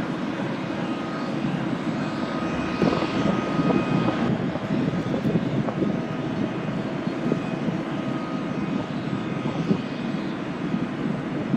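Boeing CH-47D Chinook tandem-rotor helicopter running steadily, its twin turbine engines and rotors making a dense, even noise with a thin steady whine above it.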